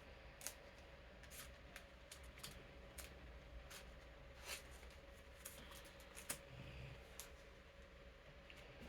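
Faint, scattered rustles and clicks of playing cards being slid into plastic card sleeves and handled, over the steady hum of an electric fan.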